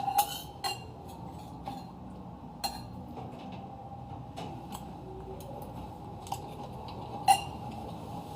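Metal cutlery clinking against a plate or bowl during eating: a few sharp, scattered clinks, the loudest about seven seconds in.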